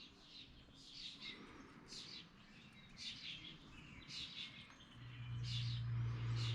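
A bird chirping faintly, short high calls about once a second. A low steady hum comes in about five seconds in.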